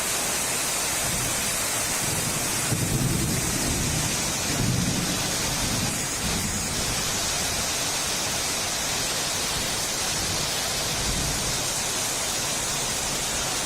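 Steady downpour of heavy rain, with thunder rumbling low about three seconds in and again near five seconds.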